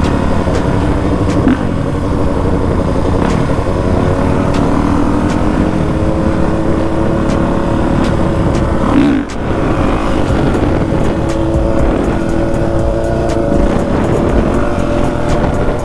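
Honda CRF450 dirt bike's single-cylinder four-stroke engine running under way, its pitch rising and falling with the throttle. There is a brief drop about nine seconds in as the throttle is closed, over a low rushing noise from riding.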